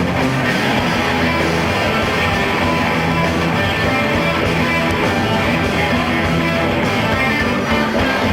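Rock band playing live: distorted electric guitars, bass and drums in an instrumental passage with no vocals.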